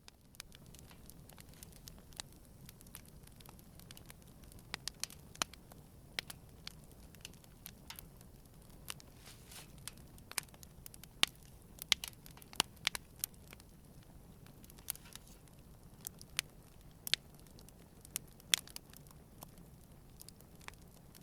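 Wood campfire burning, crackling with irregular sharp pops and snaps, a few much louder than the rest, over a faint low steady rumble.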